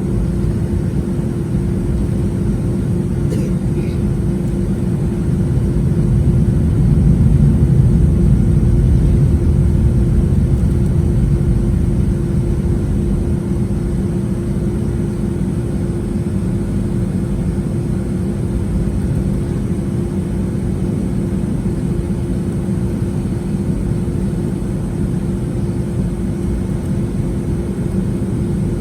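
Boeing 757-200 jet engines running as a steady low rumble with a constant hum, swelling a little about seven seconds in and then easing. A brief click about three seconds in.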